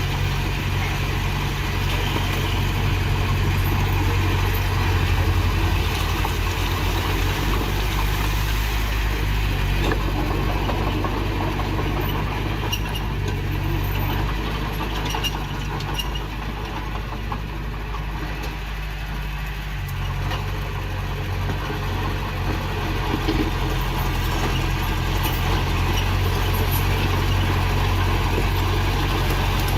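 Heavy diesel engine of earthmoving machinery running steadily. Its low hum eases for several seconds in the middle, then returns.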